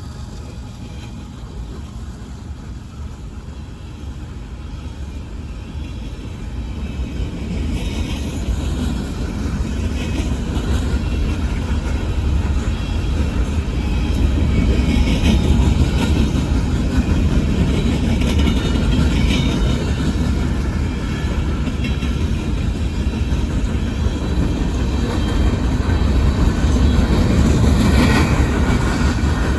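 Union Pacific coal train rolling past: a low rumble grows louder over about the first fifteen seconds and then holds steady, with short clanks and squeals of wheels on rail scattered through it.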